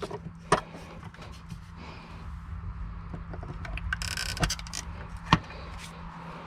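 Scattered knocks and clicks of objects being handled, with three sharper knocks (the loudest near the end) and a short hiss about four seconds in, over a steady low hum.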